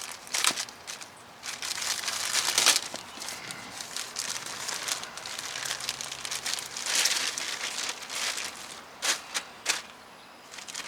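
Packaging bag crinkling and rustling in irregular bursts as a new axle is unwrapped, with a few sharp clicks about nine seconds in.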